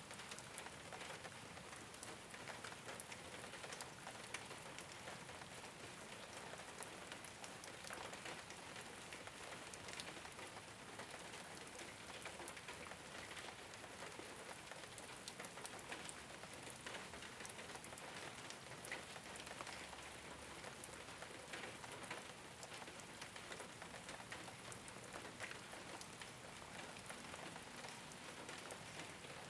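Steady rain falling on a rooftop: an even hiss of rainfall with many small, sharp drop ticks scattered through it.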